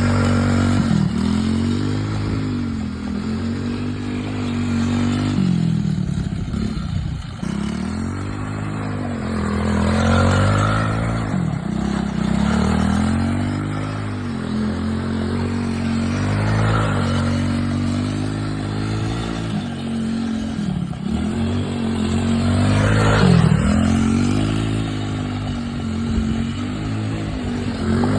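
Off-road vehicle engine being ridden, its pitch climbing and dropping again every two to three seconds as it revs up and the rider shifts or backs off the throttle.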